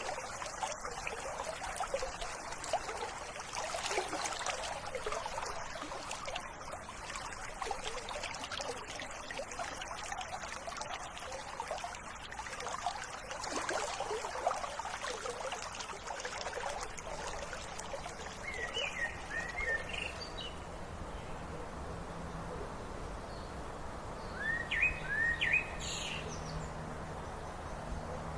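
Running river water gurgling and trickling, which thins out about two-thirds of the way through. Short clusters of bird chirps then come in twice near the end.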